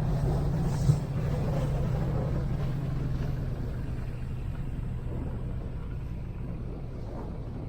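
Speedboat engine running steadily at an even pitch, slowly growing quieter, with one brief knock about a second in.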